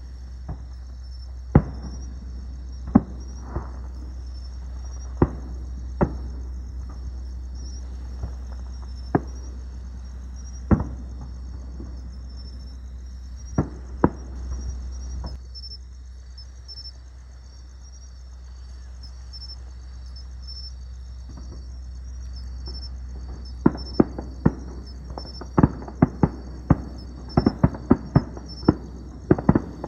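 Fireworks bursting: sharp booms a second or several apart, then coming fast and close together in the last several seconds. Crickets chirp steadily over a low rumble.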